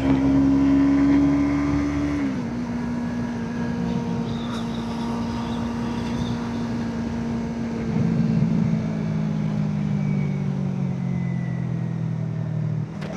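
Motorcycle engine running at steady revs under way, its pitch dropping a little about two seconds in, then sinking slowly near the end as the bike slows, with wind noise underneath.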